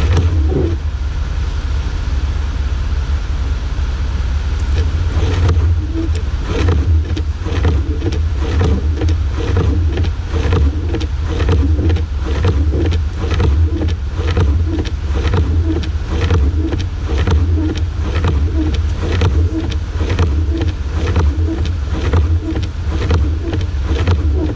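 A 4x4 vehicle driving, heard from inside the cabin: a steady low engine and road drone. From about six seconds in come frequent irregular knocks and thumps.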